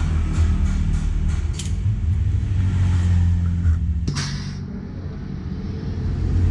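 Yamaha R25's parallel-twin engine running through a Prospeed full-system exhaust, freshly repacked with new glass wool: a steady, deep low rumble. About four seconds in there is a sharp click with a short hiss. The sound then eases for a moment before building again.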